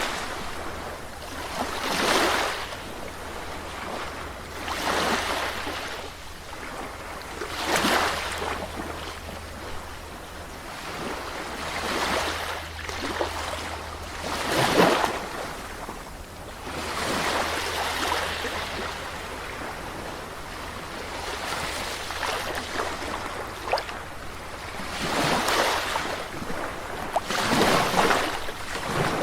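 Sea waves breaking and washing up the shore, each wave a swell of rushing surf that rises and falls away every few seconds, over a steady low rumble.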